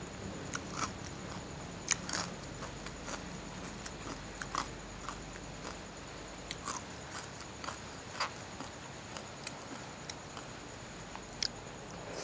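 Close-miked eating sounds from someone chewing a mouthful of tam sua, papaya salad with rice noodles: scattered short wet clicks and smacks, a few of them sharper.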